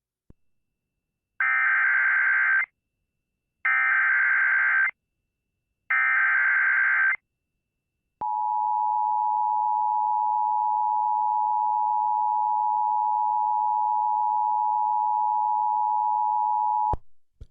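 Emergency Alert System activation tones. First come three short buzzing bursts of SAME header data, each about a second long with a second's gap between them. Then, from about eight seconds in, the steady two-tone EAS attention signal holds for about nine seconds before cutting off abruptly.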